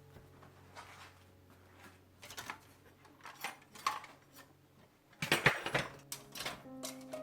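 Kitchenware being handled: scattered light clinks, then a quick cluster of louder clattering knocks about five seconds in.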